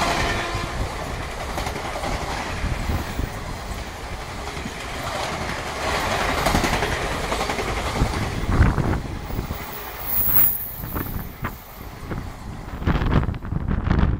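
Blue Indian Railways passenger coaches passing close at speed: a steady rush of wheels on the rails with rattling bodywork. Near the end it gives way to gusts of wind on the microphone.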